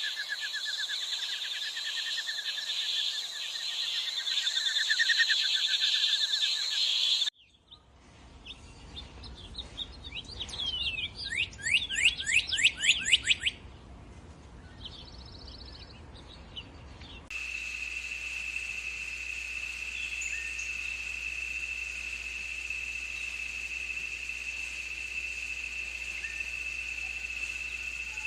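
Three wildlife recordings one after another with sudden cuts between them. First a dense, pulsing trilling chorus at two high pitches. After about 7 seconds a bird sings, the loudest part being a quick run of steeply falling whistles. From about 17 seconds a steady, high insect drone holds to the end.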